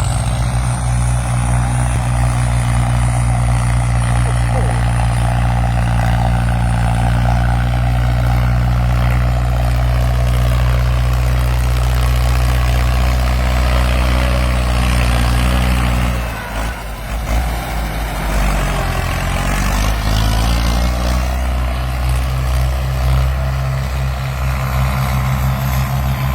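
Farm tractor's diesel engine running steadily and loudly. About 16 seconds in, its note sags, then climbs back up over the next few seconds.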